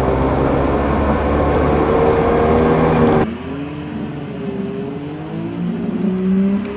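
A car engine running loud and steady. About three seconds in there is a sudden cut to a quieter engine whose pitch rises and falls as it revs.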